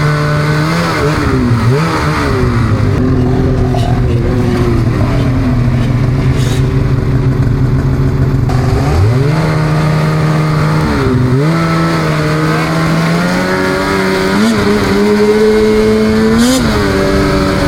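Snowmobile engine running at speed, its pitch holding steady, then dipping and climbing again several times as the throttle is eased off and opened back up.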